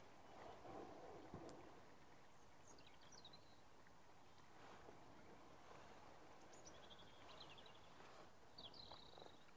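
Near silence outdoors, with three short bursts of faint, high bird chirps. A soft rustle and a small click come about a second in.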